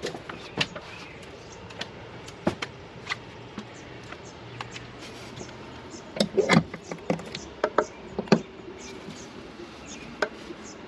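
Hands working with potted plants and a hanging basket: scattered clicks, knocks and rustles, with a busy run of louder knocks about six to eight seconds in.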